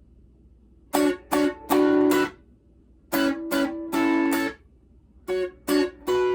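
Guitar strumming chords in a repeating rhythm: two short chopped chords followed by a longer ringing one, three times over, starting about a second in.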